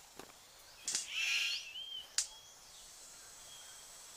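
A bird gives a harsh, buzzy call about a second in, followed by a short rising whistle and a sharp click. After that only faint forest background remains.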